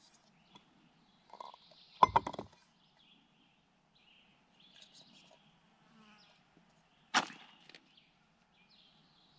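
Camp gear being handled: a short clatter of several hard knocks about two seconds in, and one sharp knock a few seconds later. Faint birds chirping in the background.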